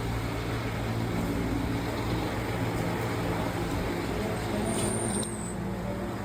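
An engine running steadily with a low hum, and a brief high-pitched squeak about five seconds in.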